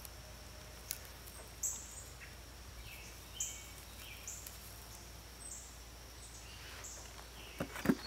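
A bird chirping over and over, short high notes about once a second. Near the end come a few knocks and rustles of hands moving potatoes through loose soil.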